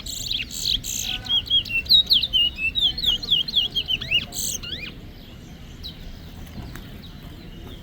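Towa towa (chestnut-bellied seed finch) singing a rapid run of sharp, sweeping chirps for about five seconds, then only faint chirps. In a bird race this is a competition song, one of the songs being counted.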